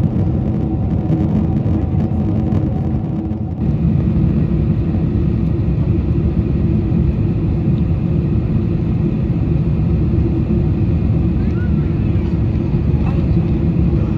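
Steady cabin noise aboard a Boeing 747-400 in descent: a low drone of engines and airflow with a few steady tones. About three and a half seconds in, the sound shifts and a higher steady whine joins it.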